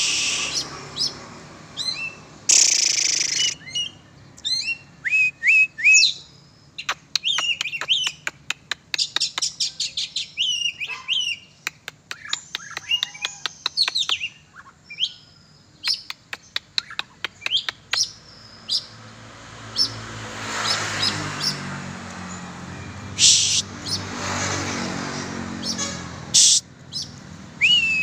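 Oriental magpie-robin (kacer) singing: varied whistled phrases and pitch glides, with a long run of rapid chattering clicks in the middle. A few short, loud bursts of hiss cut in near the start and twice in the last third.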